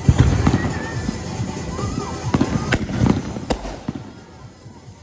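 Consumer fireworks going off in quick succession: dense popping and crackling with two sharp bangs about three seconds in, thinning to scattered crackle near the end.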